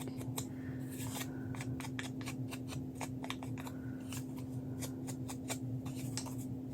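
Paper and craft pieces being handled on a work table: a quick, irregular run of many small crisp clicks and rustles, over a steady low hum.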